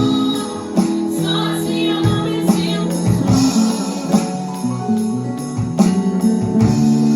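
Live worship band playing an instrumental passage: sustained keyboard chords and electric guitar over drums, with a drum and cymbal hit about every second and a half.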